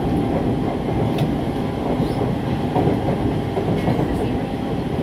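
SMRT C651 metro train heard from inside the passenger car while running at speed: a steady rumble of wheels on the track, with a few faint clicks.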